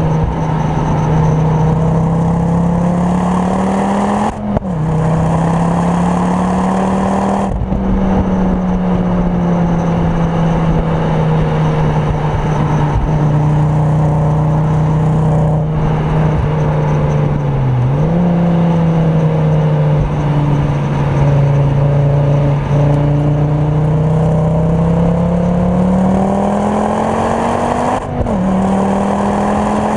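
Ford Focus RS Mk2's turbocharged five-cylinder engine, tuned to about 420 bhp with a full Milltek exhaust, driven hard on track and heard from inside the cabin. The engine note climbs steadily under power and drops briefly at each of several gear changes and one lift-off for a corner.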